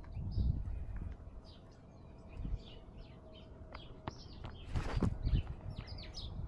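Small birds chirping in quick, repeated short calls. A brief louder noisy burst comes about five seconds in.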